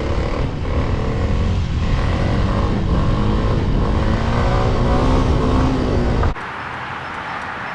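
Pit bike engine revving, its pitch rising and falling, until it cuts off abruptly about six seconds in. A quieter, steady outdoor background follows.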